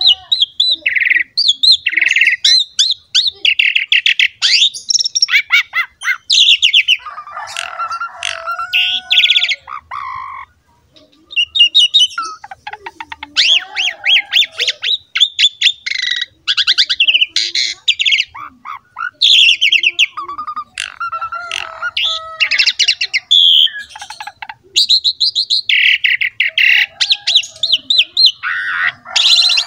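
Asian pied myna (jalak suren) in full song: a long, varied run of rapid chattering trills, whistles and harsh squawks, with a short pause about ten seconds in.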